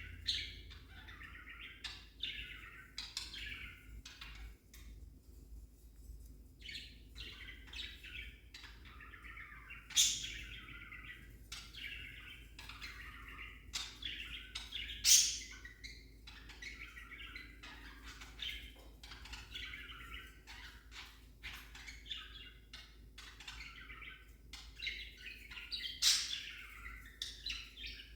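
Budgerigar chattering and warbling without a break, with a few loud sharp chirps about ten, fifteen and twenty-six seconds in.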